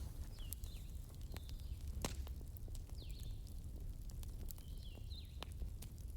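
Wood fire crackling, with sharp pops and snaps over a steady low rumble. Short high chirps recur about every second.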